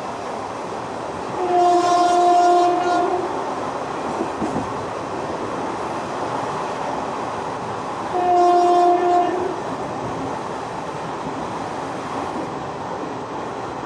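Indian Railways locomotive horn sounding two blasts, a longer one about a second and a half in and a shorter one near the middle, over the steady running noise of a passenger express train's coaches on the track.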